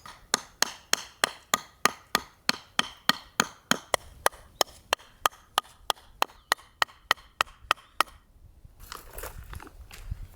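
Rapid, evenly spaced sharp knocks, roughly three or four a second, about 28 in all, stopping about eight seconds in, like chopping or hammering.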